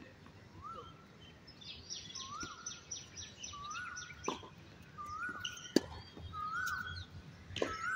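Birds calling in trees: a short rising-and-falling whistle repeated about once a second, and a fast run of high chirps about two seconds in. Two sharp knocks of tennis balls being struck, the louder one about six seconds in.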